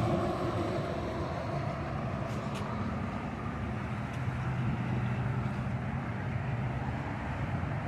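Steady traffic noise from a busy highway, with the low hum of passing vehicles' engines.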